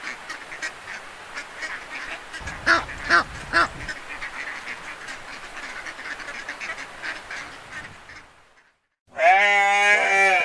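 Ducks quacking: a dense run of quacks, with three louder quacks close together about two and a half seconds in, fading out after about eight seconds. Near the end comes a loud, steady pitched tone lasting just over a second.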